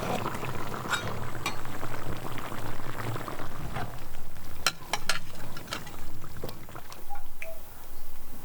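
Liquid sloshing and bubbling, with scattered light clinks and taps that thin out after about six seconds.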